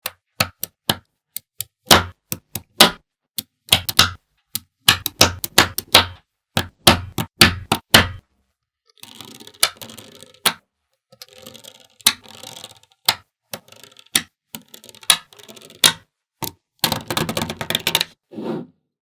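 Small magnetic balls snapping together with sharp clicks, many in quick succession, then a stretch of softer rattling and scraping with scattered clicks.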